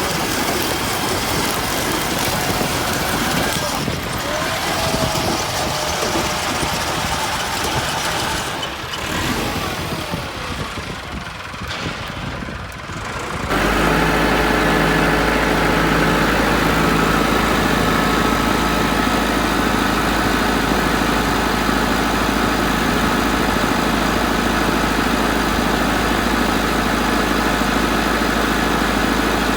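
Engine running unevenly. About thirteen seconds in, it changes abruptly to a steadier, louder engine drone with a deep hum and a faint steady whine.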